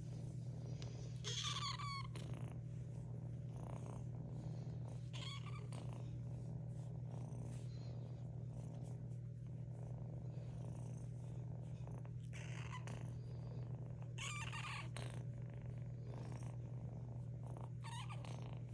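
Kitten purring steadily close to the microphone, with several brief high chirps over it.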